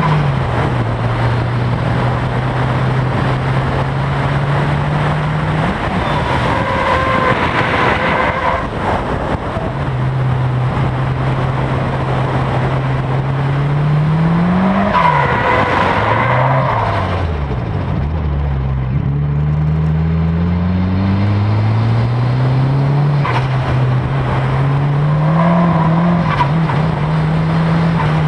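Nissan S13 Silvia's turbocharged SR20DET four-cylinder running hard on track, its note climbing and dropping with the revs through the corners. Tyres squeal in three spells while the car drifts, the longest about a quarter of the way in and again about halfway, a shorter one near the end.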